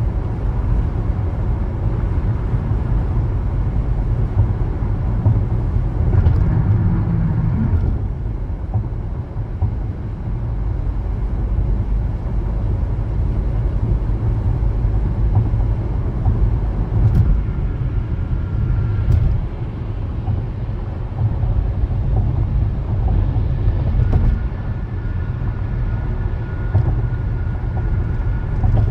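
Steady low road and engine rumble of a moving car, with a couple of faint clicks past the middle.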